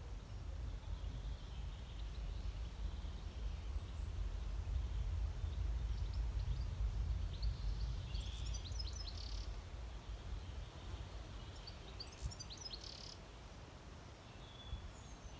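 Small birds chirping in two short bursts of rapid high notes, about eight and twelve seconds in, over a steady low rumble of outdoor background noise.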